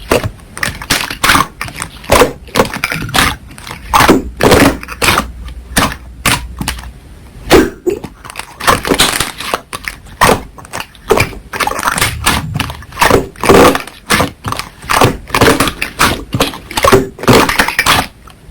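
Slime being squeezed and kneaded by hand, making irregular sticky popping and crackling clicks, several a second.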